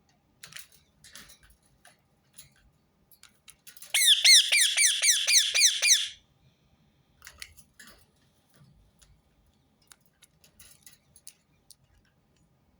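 Rose-ringed parakeet calling: a loud, rapid string of about ten sharp squawks, some five a second, lasting about two seconds in the middle, with faint soft chirps and clicks before and after.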